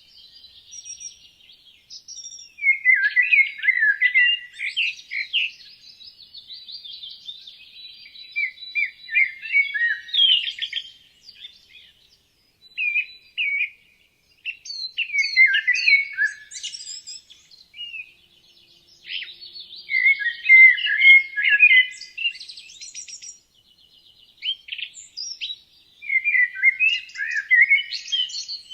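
Songbirds singing: a loud, quick warbled phrase of about two to three seconds that comes back every five or six seconds, with fainter chirps and trills between the phrases.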